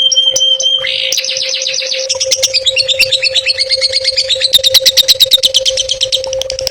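Long-tailed shrike (cendet) singing: a short held whistle, then a fast rapid-fire run of sharp repeated notes that is loudest about five seconds in, over a steady hum.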